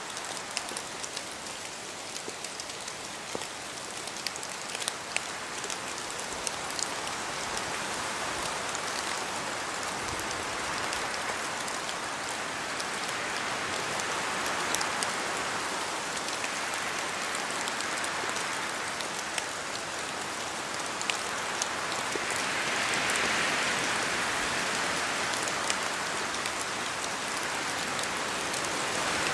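Steady rain falling through forest trees, with many separate drops ticking close by. Wind swells in gusts about halfway through and again near the end, and the whole grows slowly louder.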